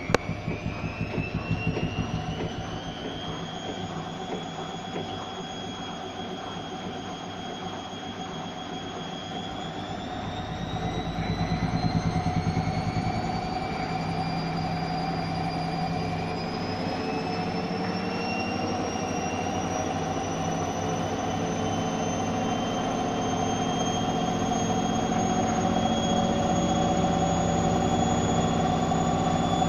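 Zanussi ZWH7148P washing machine speeding up into its spin: the motor's whine climbs in pitch in stages over a rapid, rhythmic low knocking from the drum, loudest about twelve seconds in. The knocking is the fault the owner is showing.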